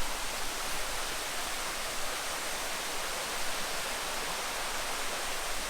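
Steady, even rush of falling water from a waterfall, unchanging throughout.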